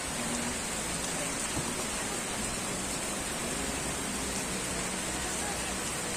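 Steady rain falling, an even hiss with no distinct drops or gusts.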